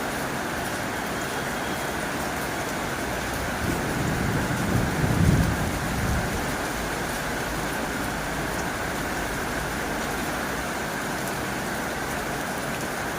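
Heavy rain falling steadily on a tin roof. A low rumble swells about four seconds in and fades a couple of seconds later.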